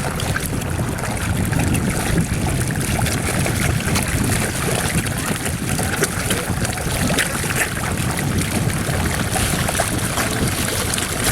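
Water churning and splashing with many small slaps and sucks as a dense crowd of carp feed on bread at the surface, with wind buffeting the microphone.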